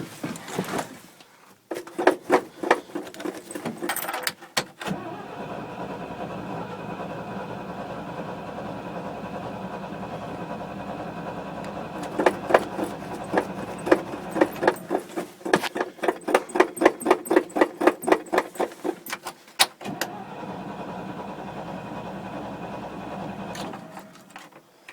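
Starter cranking an engine that has sat unused for a year, on a prime of gas. It catches and runs steadily for several seconds. About twelve seconds in it cranks again, runs briefly once more, and stops near the end.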